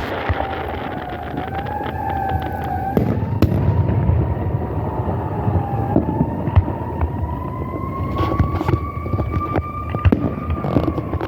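Fireworks crackling and popping in rapid, irregular strings over a low rumble. Behind them runs one long siren-like tone that slowly rises and falls in pitch.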